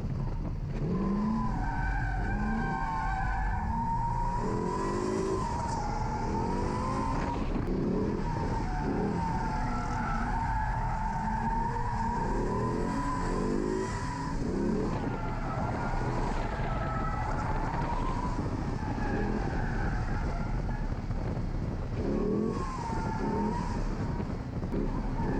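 C6 Corvette's LS V8 drifting, revving up and down over and over while the rear tyres squeal in a long, wavering tone that runs on with short breaks.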